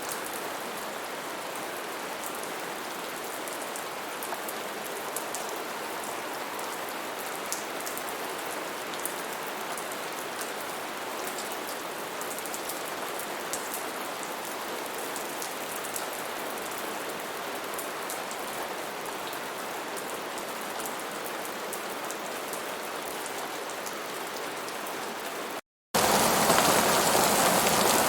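Steady rain falling on a surface, with many small, sharp drop ticks. A little before the end the sound cuts out for a moment and comes back as heavier, louder rain.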